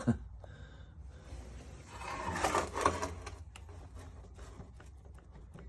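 A knock, then a couple of seconds of metallic rattling and clatter, then a run of light irregular clicks: motorcycle parts being handled during a teardown inspection.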